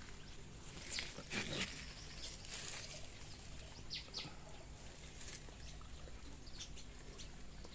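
Faint rustling, with a few short high chirps from birds in the aviary, in the middle.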